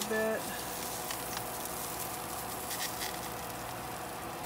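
Diced tofu frying in oil in a nonstick pan, a steady gentle sizzle with a few light ticks as a plastic slotted spatula moves the cubes. A faint steady hum runs underneath.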